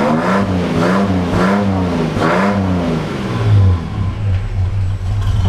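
Buick 231 (3.8 L) V6 engine revved in several quick throttle blips, each rising and falling in pitch, then settling back to a steady idle around 800 RPM.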